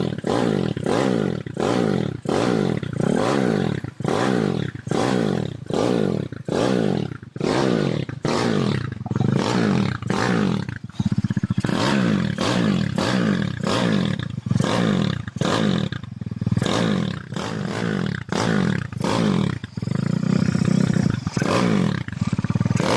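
Bored-up Honda Tiger single-cylinder engine, taken out to about 260cc with a 71.5 mm bore, revved over and over in quick throttle blips, its pitch rising and falling with each one about one and a half times a second.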